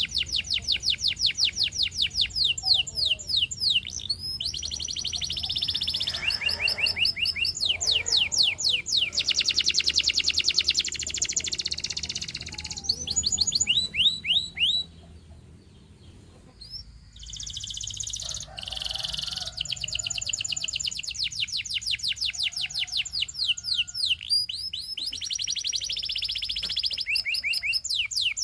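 Domestic canary singing: fast rolling trills of many short repeated notes, each falling in pitch, changing from one phrase to the next. The song breaks off for a second or two about halfway through, then resumes.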